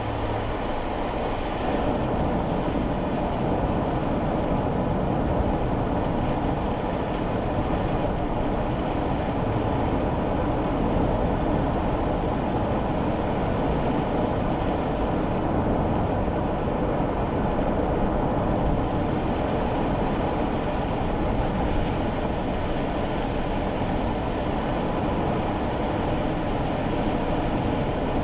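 Steady road and tyre noise inside a moving kei car's cabin, on rain-wet roads, with a low rumble that gets slightly louder about two seconds in.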